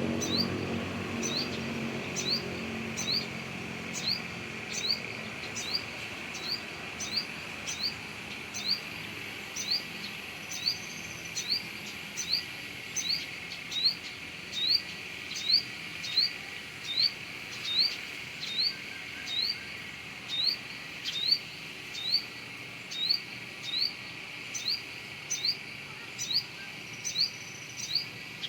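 Sunbird calling: a short, rising chirp repeated about three times every two seconds, over a steady high hiss.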